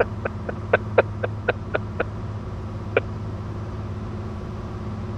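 Cessna 182's engine and propeller droning steadily, heard muffled through the headset intercom. A run of short clicks about four a second sounds over the first two seconds, with one more click around three seconds in.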